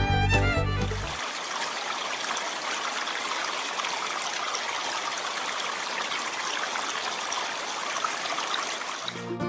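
Steady running water, like a small stream or trickle, rising in after music cuts off about a second in and fading back into music near the end.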